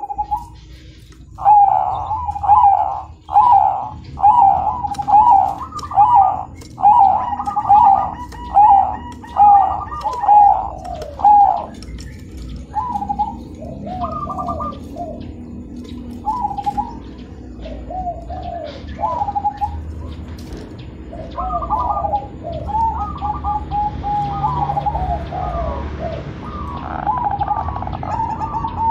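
Perkutut (zebra dove) cooing: a run of loud coos, about one a second, for roughly the first ten seconds, then softer, scattered coo phrases.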